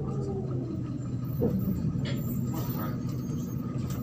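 MAZ-103 city bus running, heard from inside the cabin: a steady low engine drone with a whine that falls in pitch at the start and a short rising whine about a second and a half in, plus a few faint rattles.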